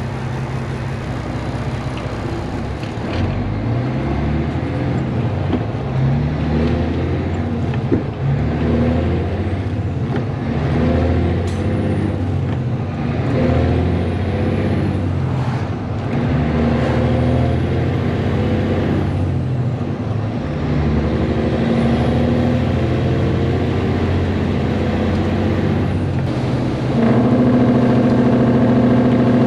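Straight-piped Caterpillar C10 inline-six diesel in a Peterbilt 362 cabover, running with its muffler removed as the truck is driven. The engine note rises and falls repeatedly as it pulls through the gears, then holds a steadier, louder note near the end.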